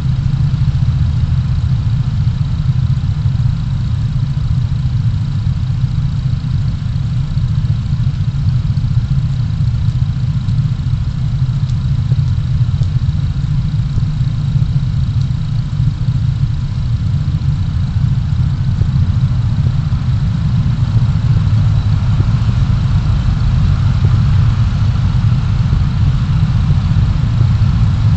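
Steady low rumble of a car's engine and road noise, picked up by a dashcam inside the cabin, with a faint thin high tone over it.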